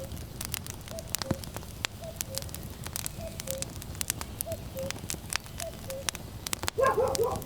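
Wood fire crackling with sharp pops over a low rumble, while a common cuckoo repeats its two-note falling call about once a second. Near the end a puppy gives a quick burst of short yelps, the loudest sound.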